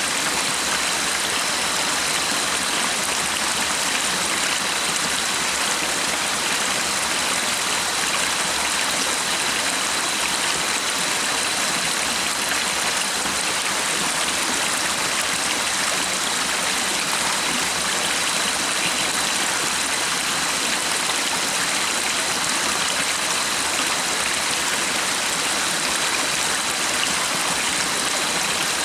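Stream water rushing and splashing steadily, an even, unbroken wash of sound, with a faint steady high tone above it.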